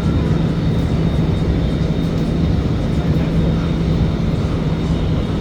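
Inside a car of an SMRT R151 metro train running along the line: steady rolling and motor noise with a constant low hum.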